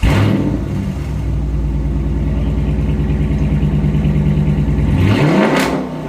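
Straight-piped Chrysler 300 engine firing up suddenly and running loud and steady, then a short rev about five seconds in that drops back.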